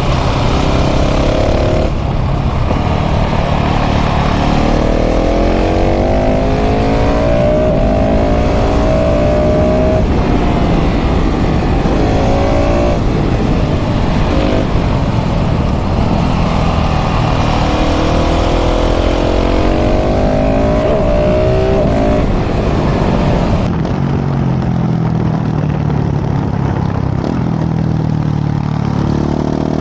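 KTM 690 SMC R's single-cylinder LC4 engine through a full LeoVince exhaust under hard riding, its pitch climbing and dropping again and again as it accelerates and shifts up, with wind rush. About 24 seconds in, the sound gets duller, and near the end the engine climbs in pitch again.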